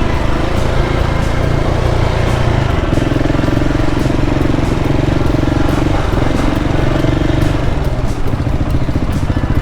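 KTM 690 Enduro's single-cylinder engine running while riding, its note stepping up and down a few times with throttle changes.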